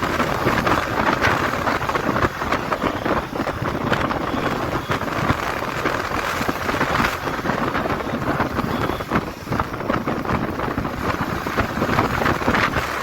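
Wind rushing over the microphone with engine and road noise from a motorcycle on the move, a steady dense rushing noise.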